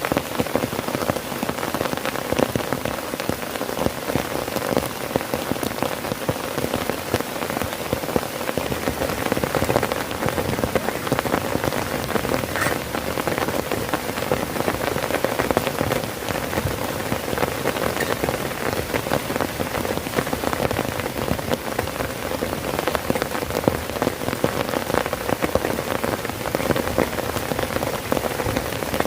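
Heavy rain drumming steadily on a tent's fabric, a dense patter of countless drops.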